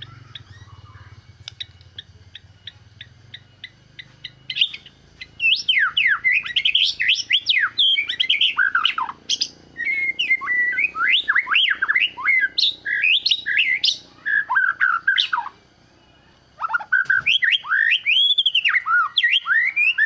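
White-rumped shama (murai batu) singing a loud, varied challenge song of rich whistles sweeping up and down in pitch, with a brief break about three-quarters of the way through. It opens with a run of soft ticks, about three a second, before the song starts.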